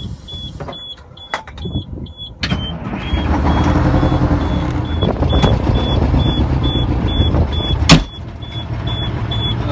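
Detroit Diesel engine cold-started on ether: it fires about two and a half seconds in and keeps running. There is a sharp bang near the end, after which it runs quieter. A high warning beep repeats about twice a second throughout.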